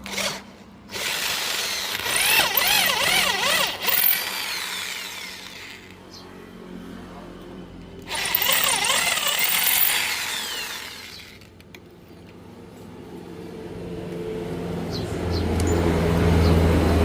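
Electric hand drill run in several bursts, its pitch rising and falling as the trigger is squeezed and eased, working on a rusted exhaust stud in a Suzuki Satria FU cylinder head. A low hum builds near the end.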